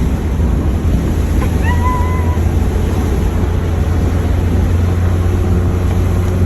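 Steady low road and engine rumble of a car being driven, heard inside the vehicle, with a short high chirp about two seconds in.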